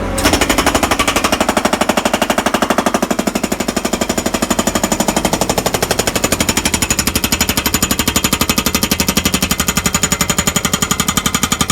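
Skid-steer-mounted Atlas Copco hydraulic breaker hammering concrete: a rapid, steady string of loud blows over the skid steer's running engine.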